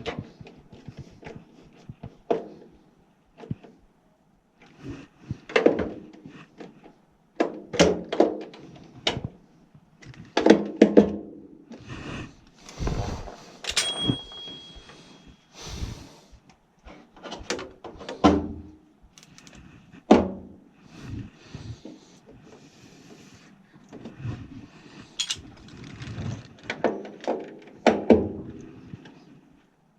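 Irregular knocks, clunks and short rattles of hand work on a furnace's plastic cold header box and its fittings, with pauses between them.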